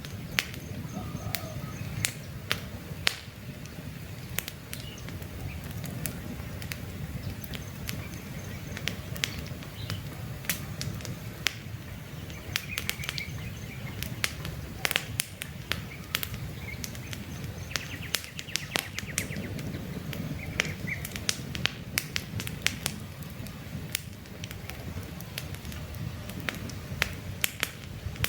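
Wood campfire crackling, with frequent sharp pops and snaps over a steady low rumble of burning flames. Faint bird chirps now and then.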